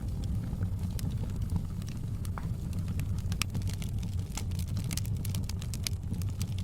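Wood fire crackling in a fireplace: a steady low rumble of the burning fire with frequent sharp pops and snaps, coming thicker in the second half.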